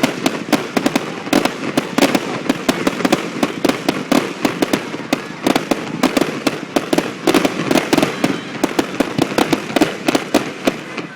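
Fireworks display going off in a dense barrage: many sharp bangs and crackles a second, overlapping over a constant rumble.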